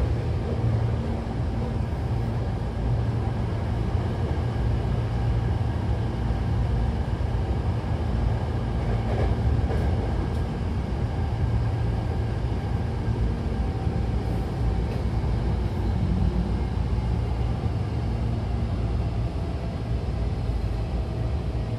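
Hankyu Takarazuka Line train running between stations, heard from inside the carriage: a steady, deep rumble of wheels on rail with faint steady hum tones over it.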